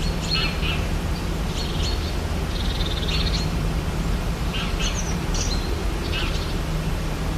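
Rainforest ambience: wild animals giving repeated short, high chirping calls, with a fast trill about three seconds in, over a steady low rumble.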